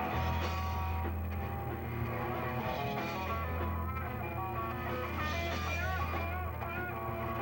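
Live rock band playing, an electric guitar line with bent, wavering notes over a steady low bass.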